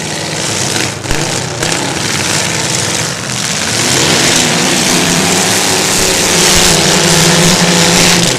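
Demolition derby cars' engines running loud and revving, with engine pitch climbing from about halfway through.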